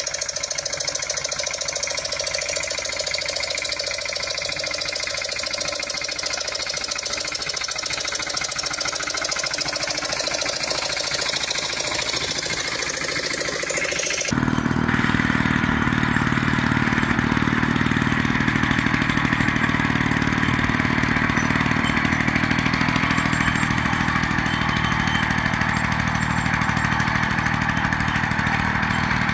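Small engines of walk-behind tractors running steadily. About halfway through the sound switches abruptly to a different, louder engine with a deeper, heavier tone.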